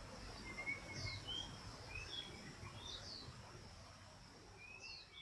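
Faint woodland ambience: birds giving short chirps and whistles every half second or so, over a thin, steady high-pitched hum and a low background rumble.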